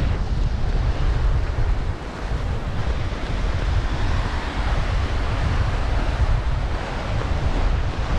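Wind buffeting the microphone with a steady, heavy low rumble, over the wash of surf breaking on a beach.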